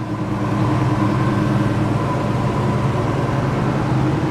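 A 1963 GMC panel truck's 350 V8, fitted with headers and dual exhaust, running steadily at idle with an even, unchanging note.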